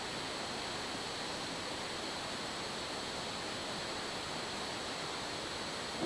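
Steady hiss of static from a police scanner between transmissions, with a faint high steady tone under it.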